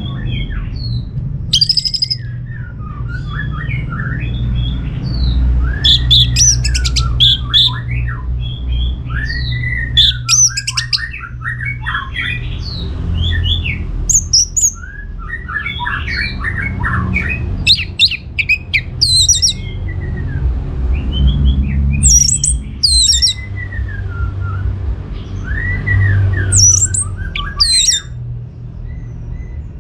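Orange-headed thrush singing continuously: a rich, varied song of rising-and-falling whistled phrases mixed with sharp, high notes, over a steady low background rumble.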